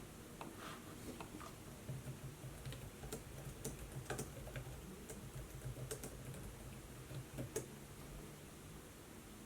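Typing on a laptop keyboard: a run of irregular, quick key clicks that falls quiet near the end.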